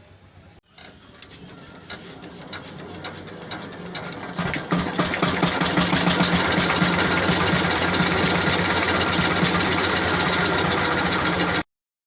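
Small generator engine running with a fast, even mechanical clatter, building up over the first few seconds and then running steadily until it cuts off abruptly near the end.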